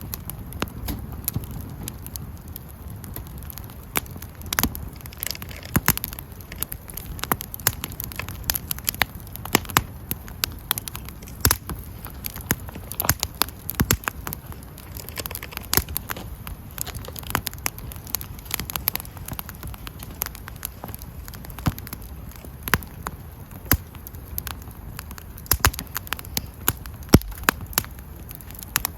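Wood campfire burning, with irregular sharp crackles and pops over a low steady rush.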